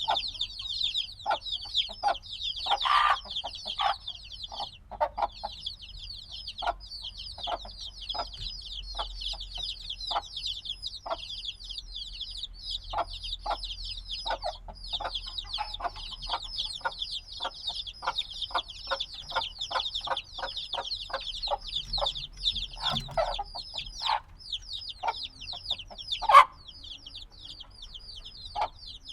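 A brood of baby chicks only a few days old peeping continuously: many short, high, falling peeps overlapping, with lower calls mixed in and one sharp, louder call near the end.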